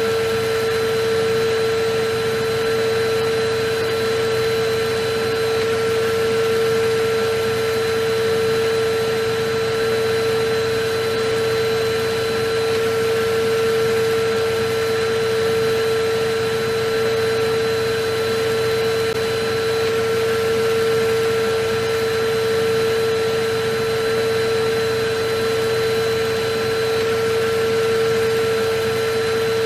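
Electric vacuum cleaner running continuously: a steady hum of airflow noise with a strong, unwavering tone from the motor and no change in level.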